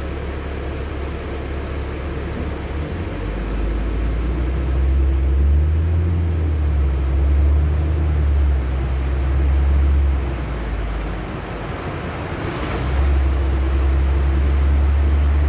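LiAZ-6213.65 articulated city bus under way, heard from inside the cabin: a deep engine drone that swells as the bus pulls and eases off in between, twice. There is a brief hiss about twelve seconds in.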